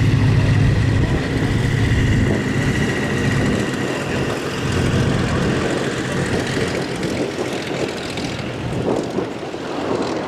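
Propeller airplane engine droning close by, then fading after about three seconds as it moves off, leaving a rough rushing noise.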